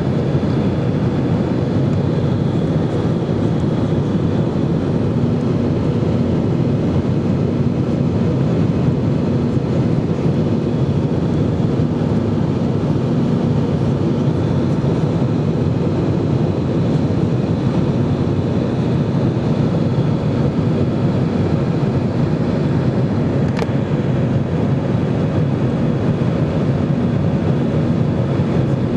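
Airbus A320 jet engines running in a steady, loud drone with a few constant hum tones, unchanging throughout; a faint click sounds near the end.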